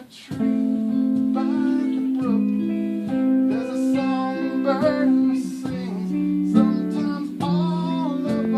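Guitars playing live: sustained chords under a picked lead line, with a few notes bent in pitch.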